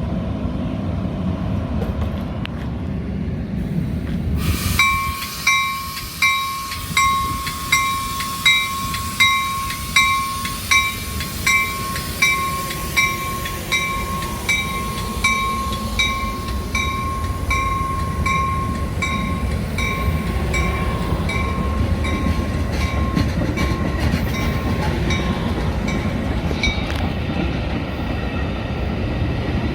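A bell ringing in a steady rhythm, about one and a half strikes a second, over the low rumble of a commuter train. It starts about four seconds in, fades gradually and stops near the end.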